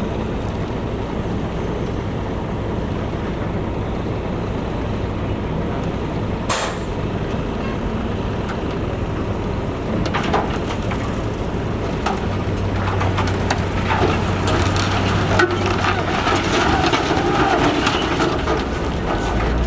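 Heavy construction machinery running: a steady diesel engine drone with a short hiss about six and a half seconds in. In the second half a louder steady engine hum sets in, with metal clanks and rattles.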